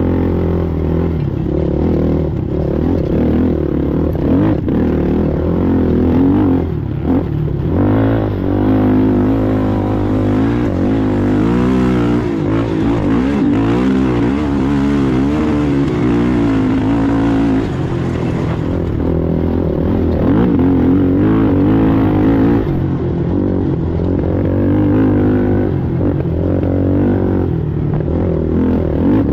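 Racing ATV engine running hard, its pitch wavering up and down with the throttle. A rougher hiss rides over it for several seconds in the middle.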